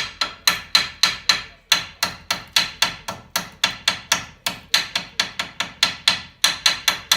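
Hammer blows on metal at the seized pad retaining pins of a Volkswagen T4 front brake caliper: quick, even strikes about four a second, each ringing briefly, with two short breaks.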